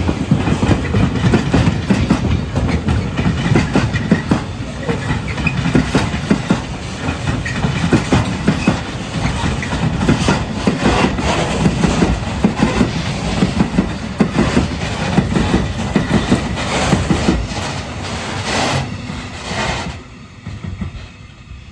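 Wagons of a military freight train rolling past, wheels clacking over the rail joints in a steady rhythm of knocks. The sound falls away about twenty seconds in as the end of the train clears.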